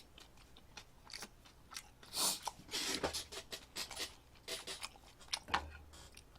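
Close-miked chewing: a string of irregular, crunchy mouth clicks as food is chewed, loudest about two seconds and five and a half seconds in.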